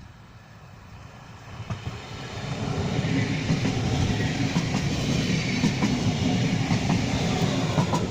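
A train passing, its wheels clattering over rail joints and points, growing louder about two seconds in and staying loud.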